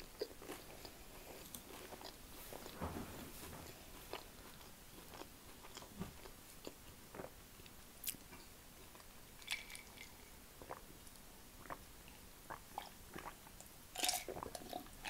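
Faint, close-miked chewing of a mouthful of roast dinner, with scattered wet mouth clicks. Near the end, louder gulps as she drinks from a glass.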